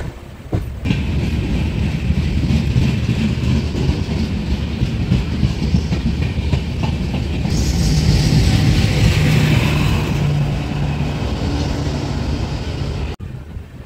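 Express passenger train running along the track, its wheels rattling over the rails under a steady rushing noise. A hissing rush swells up about halfway through, then eases. The sound cuts off abruptly near the end.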